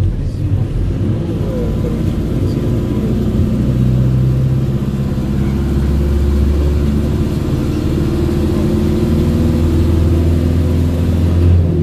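Car engine running steadily with a low hum and road noise, as from a moving car.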